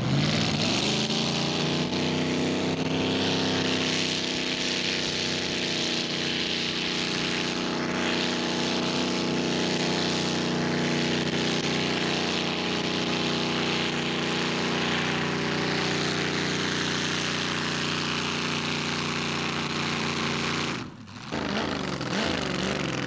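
Mini-modified pulling tractor's engine revving up and held at full throttle for a long pull, then cutting off suddenly about 21 seconds in; it briefly picks up again near the end.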